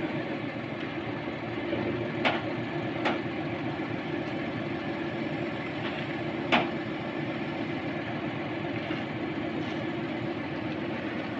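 Truck engine running steadily while the truck-mounted crane works, with three sharp knocks, the third and loudest about two-thirds of the way through.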